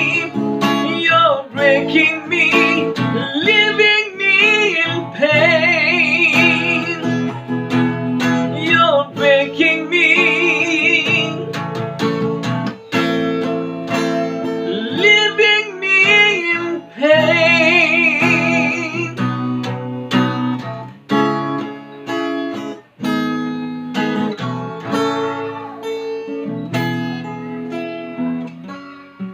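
Acoustic guitar accompanying a singer holding long, wavering notes. About two-thirds of the way through the voice drops out, and the guitar alone picks out the closing notes.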